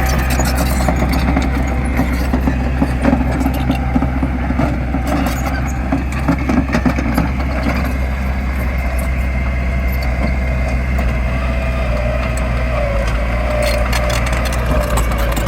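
Diesel engine of heavy earthmoving machinery running steadily, with scattered short knocks and a faint wavering whine in the second half.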